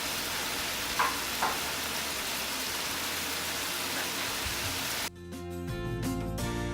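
Food sizzling in a frying pan, a steady hiss with two light clicks about a second in. It cuts off about five seconds in and background music begins.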